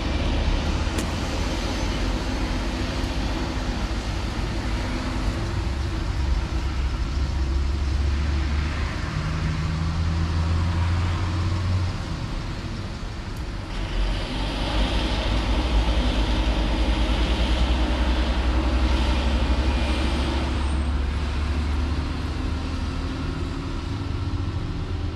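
Heavy diesel engine running steadily at a low, even pitch, with highway traffic passing; a louder passing vehicle swells up about halfway through.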